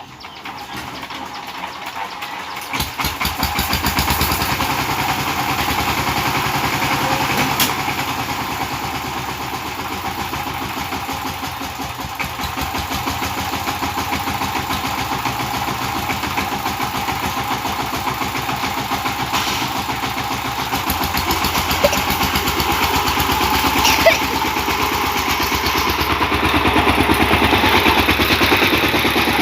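Power tiller engine starting up a couple of seconds in, then running steadily with a fast, even chugging.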